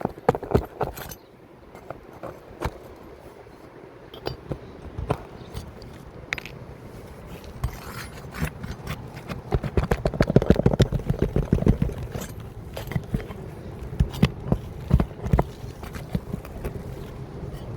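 Scraping, tapping and scattered knocks of hands and tools working 3-tab asphalt shingles on a roof, busiest about ten to twelve seconds in.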